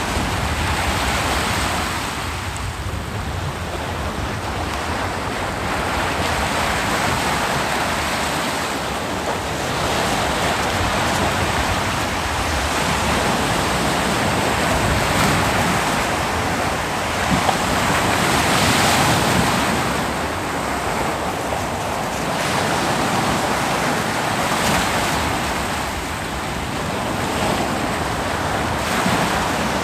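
Ocean waves breaking and washing up a beach, a continuous surf noise that swells and eases every few seconds, with some wind on the microphone.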